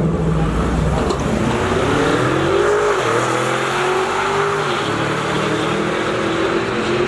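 Drag-racing car accelerating hard down the strip, its engine note climbing and dropping back at each gear change (twice in the first three seconds) before holding steady.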